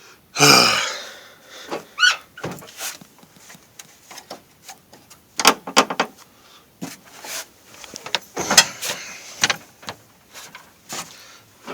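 Irregular knocks, scrapes and brief squeaks of plastic and metal parts being handled and pulled loose in a pickup's engine bay.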